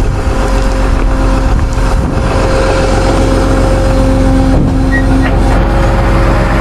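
Tow truck engine running steadily, with a steady hum over the low rumble.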